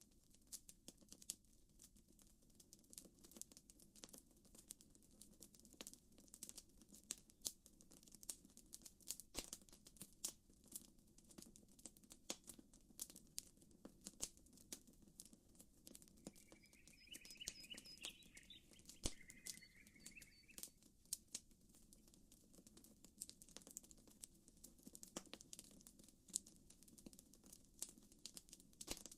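Campfire crackling: a steady stream of irregular sharp pops and snaps over a low, even hiss. A small bird chirps in two short phrases a little past the middle.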